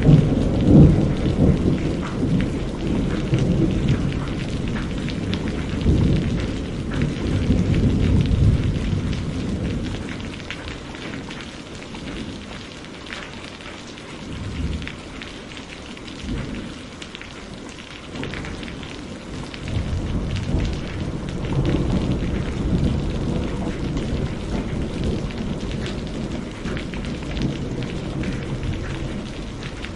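Heavy rain pouring steadily, with thunder rumbling deep underneath. The rumbles are strongest near the start, ease off in the middle and build again toward the end.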